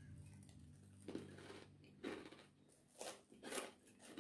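A person chewing a mouthful of fried rice eaten by hand, with short mouth-noise bursts about once a second. Background music fades out in the first second or two.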